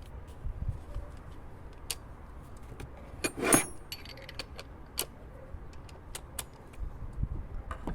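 Small metal objects clinking now and then, with one louder jangle about three and a half seconds in.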